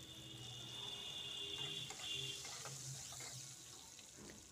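Tomato pieces frying in hot mustard oil in a kadai with a steady, hissing sizzle that swells through the middle and eases off near the end, with a few faint scrapes of a metal spatula.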